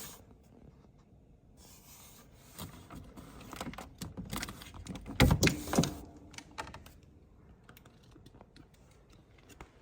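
Scattered light clicks and rattles of parts being handled while a dishwasher's door panel is taken apart, with a louder clatter about five seconds in.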